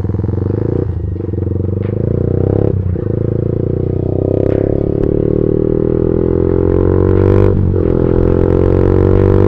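Single-cylinder motorcycle engine under way, its pitch climbing steadily, with brief dips about five times that fit gear changes.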